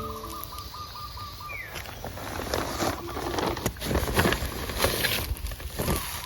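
A bird calls with a quick run of repeated notes while the background music ends. Then come irregular knocks and rustling from handling something outdoors, with a few sharper knocks in the second half.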